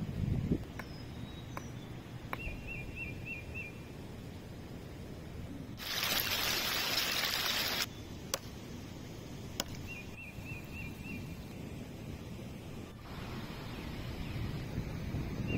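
A songbird repeating a short phrase of about five quick high chirps three times over a steady outdoor background. About six seconds in, a loud rush of noise lasts about two seconds, and a few sharp clicks are scattered through.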